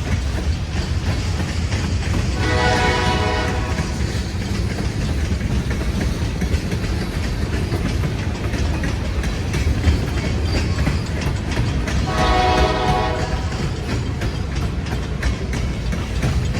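Freight train rolling by with a steady heavy rumble, its lead locomotive's horn, a GE C40-8's, sounding twice: a blast of about a second and a half a couple of seconds in and another near the end. Strong wind buffets the microphone throughout.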